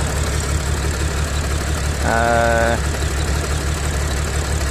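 Supercharged Audi V6 petrol engine idling steadily, the idle the owner calls very shaky; he suspects an intake air leak, misfiring or a fuel injector fault. A short, level humming tone sounds for under a second about two seconds in.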